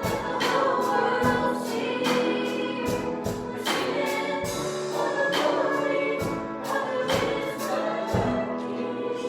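A group singing a worship song over instrumental accompaniment with a steady beat.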